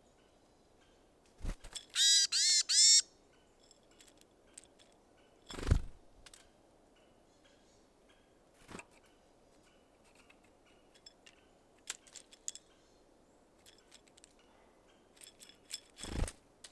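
Small wild birds at a sunflower-seed feeder: one gives three loud calls in quick succession about two seconds in, and scattered sharp clicks and taps of pecking at seeds run through, with a few dull thumps as birds land on or knock the feeder.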